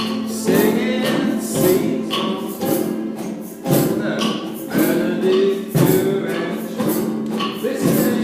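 A group of ukuleles strummed together in a steady rhythm, playing chords.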